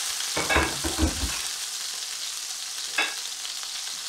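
Diced green pepper and onion sizzling in hot oil in a frying pan: a steady hiss. A few knocks come about half a second to a second in, and a single click about three seconds in.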